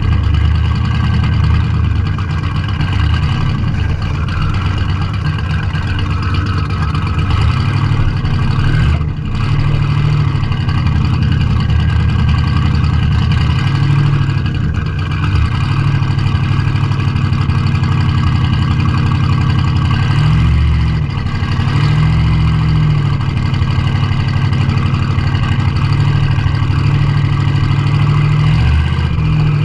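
Classic car engine running hard under load, its note held fairly steady, with a couple of brief dips and the pitch falling and rising again about twenty seconds in, as when shifting gear.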